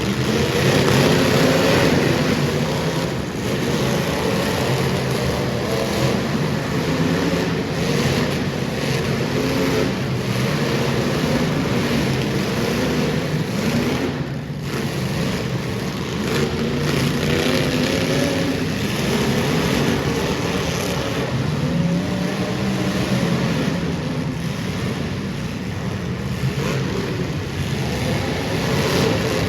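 Car engines running and revving, their pitch rising and falling throughout, with a short dip about halfway through.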